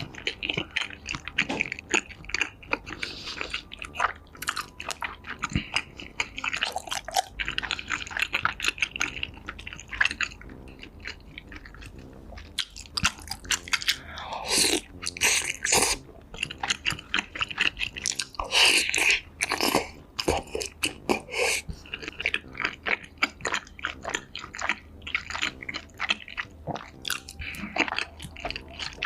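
Close-miked mukbang eating: steady chewing with many quick wet clicks and crunches as food is bitten and chewed. There are two louder stretches of crunching about halfway through.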